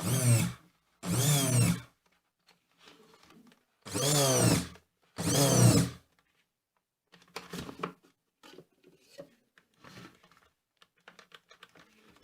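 Moulinex chopper's electric motor pulsed four times in short bursts of under a second, each rising in pitch as it spins up: the repaired appliance running again. Lighter clicks and knocks of handling follow in the second half.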